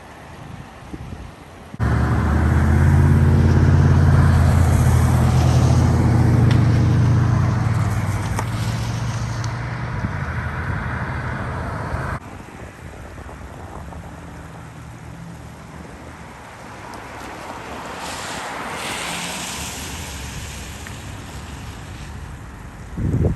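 Vehicles driving through floodwater on a road: a loud engine hum with the rush of water spray that starts and cuts off abruptly about ten seconds later, then a lower wash of road and water noise with a second, fainter hissing pass near the end.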